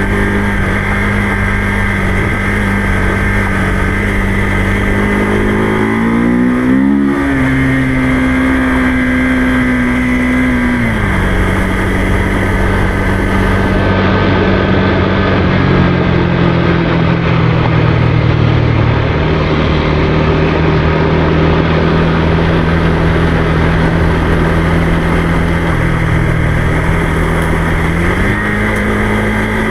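Motorcycle engine running on the move at steady revs. The pitch rises about six seconds in, drops back around eleven seconds, and climbs again near the end.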